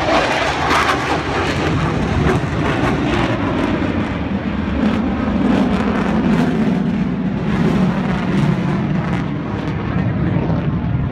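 Military display aircraft, the F-15SG fighter and AH-64D Apache helicopter, flying overhead with loud, steady engine noise. A deeper, stronger rumble builds about four seconds in.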